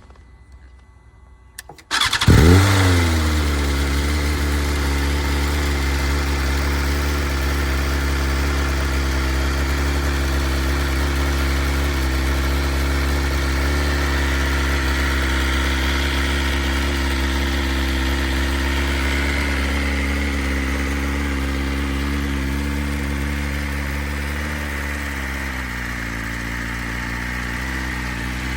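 Stock 2021 BMW S1000RR's inline-four engine cold-started: it fires about two seconds in with a brief rev flare, then settles into a steady, fast cold idle. Near the end the idle eases a little lower.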